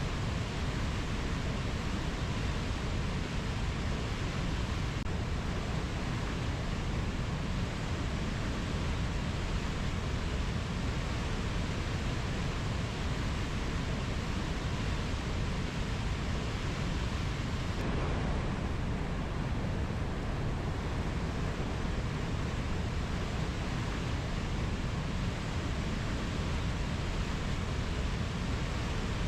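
Steady, even rushing noise of a rainforest nature-ambience track, deep and unbroken, with no distinct bird or insect calls standing out.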